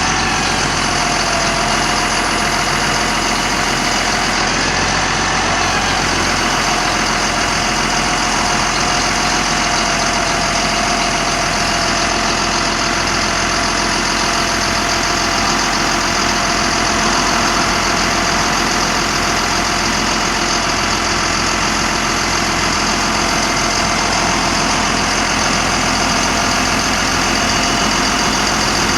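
Caterpillar diesel engine of a 1991 GMC Topkick bucket truck idling steadily, with a thin steady whine over the engine noise.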